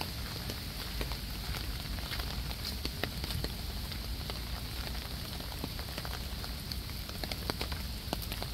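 Water falling and splashing at an outdoor water play area: a steady rush dotted with many small drip and splash ticks, like rain on a hard surface.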